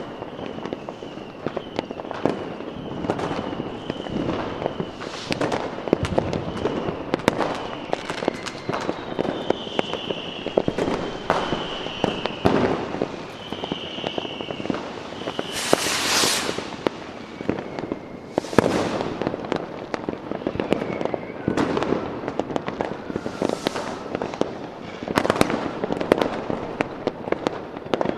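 Fireworks going off: a dense run of bangs and crackling, with high whistles over the first half and two longer hissing bursts past the middle.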